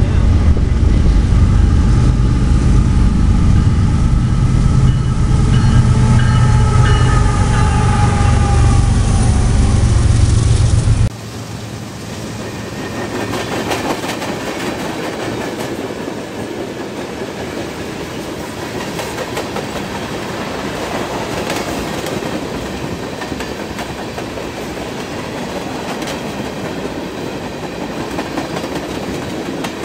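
CSX freight train: a loud low rumble with faint tones sliding slightly down in pitch as the train approaches, then, after an abrupt change about eleven seconds in, tank cars rolling steadily past with their wheels clicking over the rail joints.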